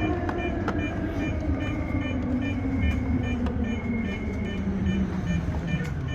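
Electric commuter train running, with a steady rumble under a motor hum that falls steadily in pitch as the train slows. Short high beeps repeat evenly throughout.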